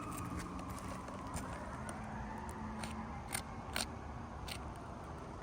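Scattered sharp clicks and ticks from asphalt shingles being lifted and handled, the two loudest about three and a half seconds in. Under them, a distant siren's faint wail falls and then rises in pitch.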